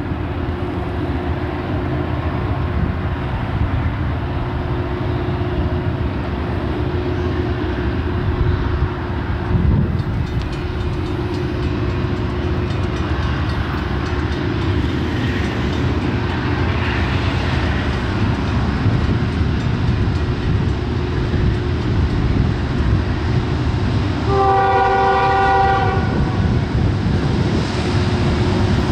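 Diesel freight locomotive running close by with a steady engine rumble. About 24 seconds in, its multi-note chord horn gives one short blast.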